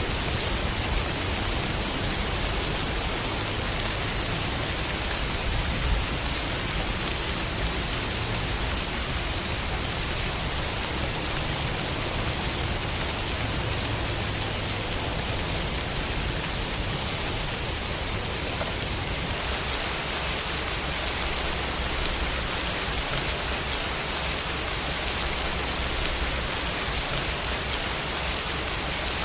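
Steady rain falling, an even hiss with a faint low rumble under it.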